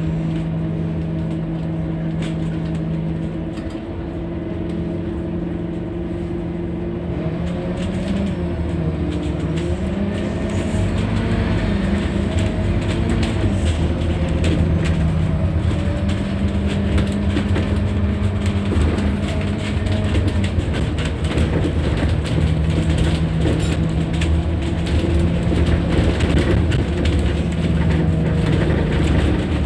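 Scania N230UD double-decker bus under way, its diesel engine and drivetrain running steadily with the pitch rising and falling a few times as it changes speed, over a continuous road rumble.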